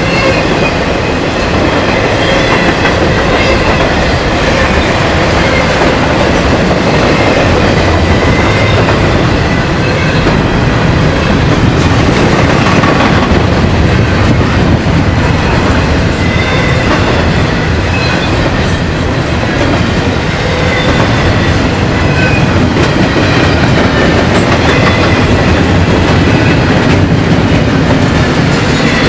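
Train cars rolling past, steel wheels clattering over the rail joints in a steady, loud stream, with faint intermittent wheel squeal.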